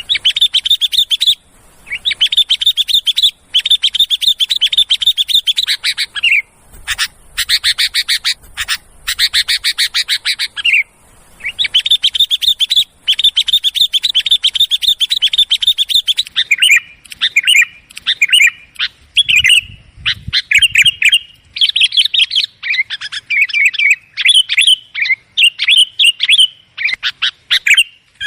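Sooty-headed bulbuls (kutilang) giving loud, rapid chattering calls. Long unbroken runs give way to shorter, broken phrases about halfway through. This is the excited 'ribut' chatter played as a lure call to draw in bulbuls.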